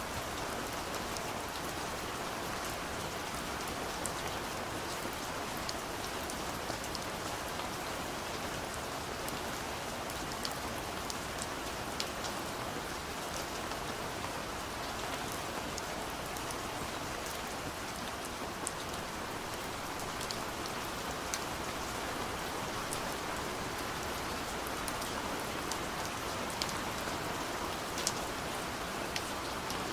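Gentle rain falling on a window: a steady, even hiss with scattered light ticks of individual drops striking the glass.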